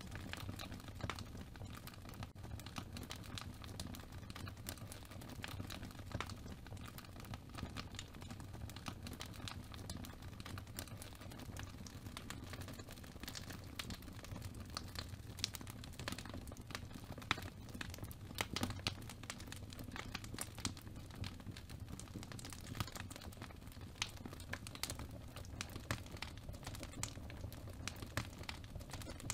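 Many small, irregular clicks and crinkles, with no steady rhythm, over a low steady hum.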